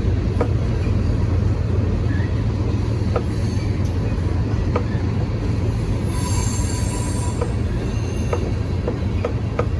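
BNSF train cars rolling past: a steady rumble of wheels on rail with irregular sharp clicks. A high wheel squeal rises about six seconds in and fades about a second and a half later.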